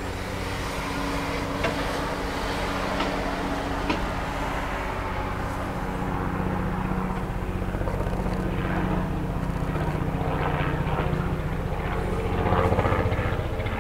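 Steady low mechanical hum, engine-like, with a few light clicks in the first few seconds; it grows a little louder and fuller in the second half.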